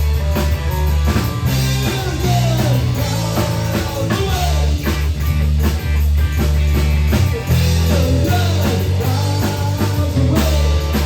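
A rock song playing, with drum kit, guitars and a strong bass line, and a singing voice.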